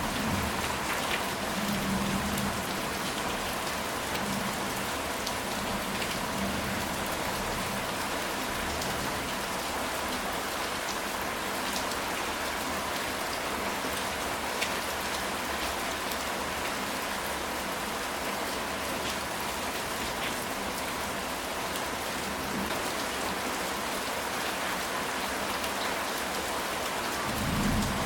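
Steady rain falling on a ceramic tile roof, a dense even patter with individual drops ticking through it. A soft low rumble swells briefly near the start and again near the end.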